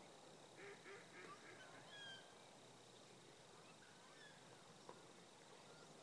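Faint calls of birds coming in to roost: a quick run of four or five short honking notes in the first second or so, then a couple of thin sliding whistled notes about two seconds in.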